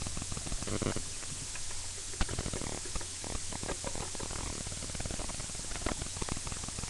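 Steady background hiss, with a few faint short clicks scattered through it.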